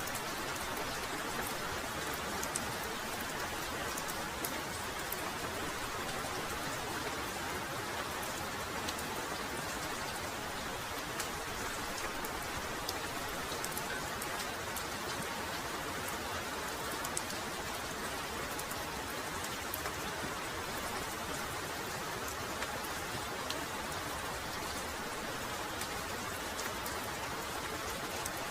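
Heavy rain falling steadily without a break, a dense hiss with many individual drops ticking sharply on top.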